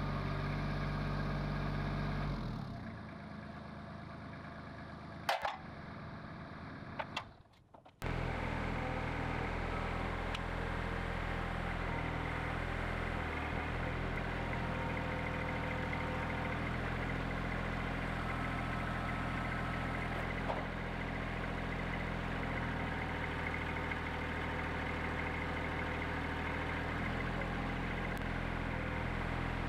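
Wood-Mizer LT15 sawmill's Kohler gas engine running steadily at a constant speed. It drops away after a couple of seconds to a quieter stretch with two sharp clicks, then cuts back in about eight seconds in and runs on.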